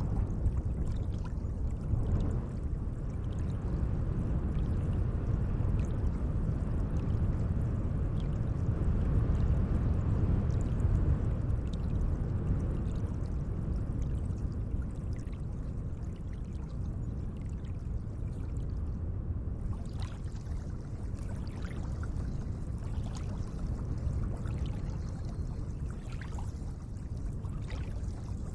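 Lake water lapping gently at the shore: a steady low rush with small splashes and drips, which come more often in the second half.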